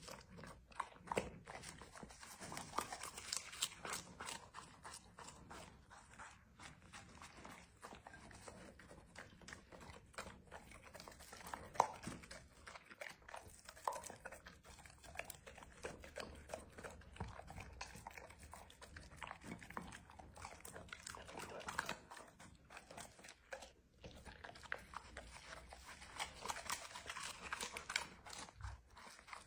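Labrador retriever chewing and crunching its food: a quiet, irregular run of crunches, bites and clicks.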